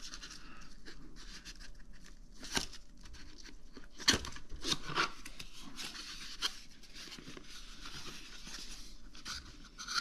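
A product box being handled and opened: rustling and scraping of packaging, with scattered sharp clicks, the loudest about two and a half and four seconds in.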